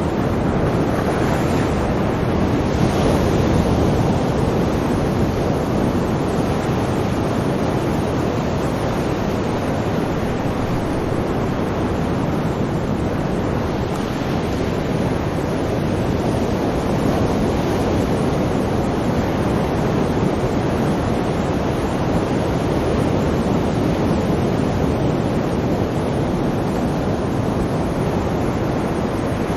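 Sea waves and surf in a continuous, steady wash, swelling gently now and then, with no distinct breaking crashes.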